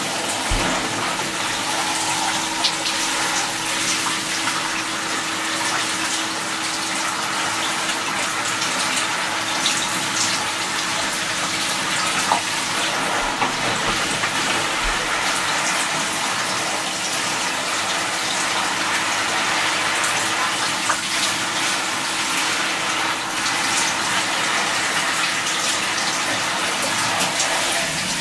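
Running water pouring or spraying steadily, like a shower or tap, with a faint steady hum and a few small clicks.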